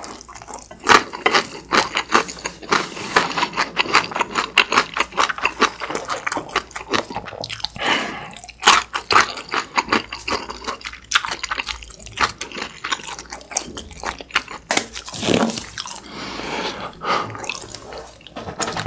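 Close-miked mouth sounds of a person chewing a mouthful of green chili pepper and black-bean instant noodles: quick clicks and smacks, several a second, with short pauses now and then.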